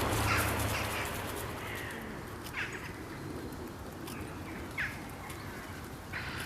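A bird calling: short, downward-sliding calls about two seconds apart over a steady background hiss.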